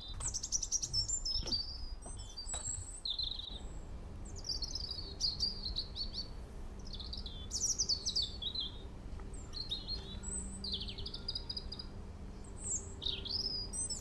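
Songbirds chirping and twittering, a steady run of short, quick high phrases, many falling in pitch as rapid trills.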